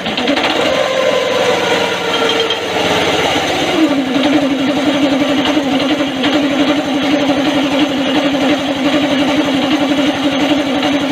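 Small petrol engine running, its pitch sliding down over the first few seconds and then settling into a steady, fast-pulsing drone.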